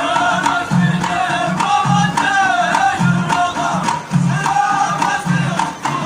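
Traditional Moroccan Amazigh folk music. A deep drum beats about once a second under a wavering melody, with sharp clicking percussion between the beats.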